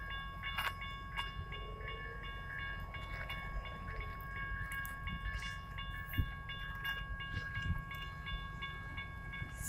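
Level-crossing warning bell ringing steadily over the low rumble of a double-stack container freight train rolling through the crossing.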